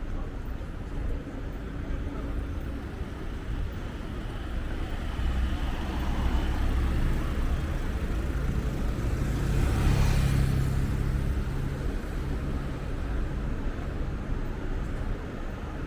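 A motor vehicle passing close by on a city street: its engine hum grows louder, is loudest about ten seconds in with a rush of tyre and engine noise, then fades, over steady traffic noise.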